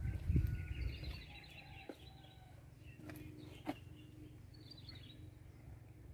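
Birds chirping and calling over a steady outdoor background, with a low rumble near the start and a couple of short clicks about three seconds in.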